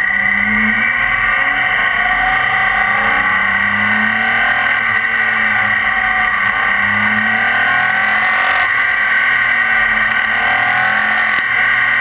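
BMW K 1600 GTL's inline-six engine running on the move, its pitch rising and falling several times.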